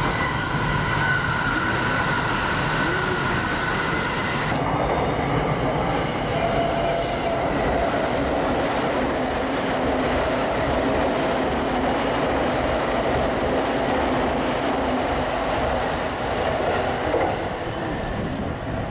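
Saikyo Line electric commuter train running through the station at speed without stopping: steady rail and wheel noise with some wheel squeal and rhythmic clatter, changing abruptly about four and a half seconds in.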